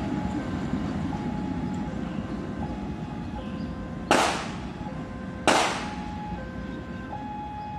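Low rumble of a passenger train running away along the track, slowly fading, with an electronic chime alternating between two pitches in a steady pattern. Two sharp bangs about a second and a half apart, a little past halfway, are the loudest sounds.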